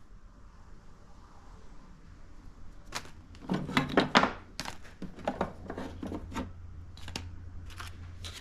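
Packs of hook-and-loop sanding discs being handled: crinkling and tearing of the packaging, loudest from about three to four and a half seconds in, then scattered softer rustles.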